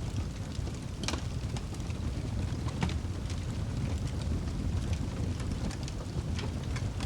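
Wood fire crackling in a fireplace: scattered pops and snaps over a low, steady rumble of flame, with one louder pop about a second in.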